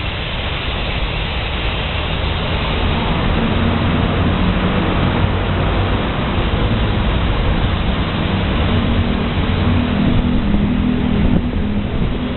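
A vehicle engine running steadily, its low hum slightly higher in the second half, under a constant rushing noise.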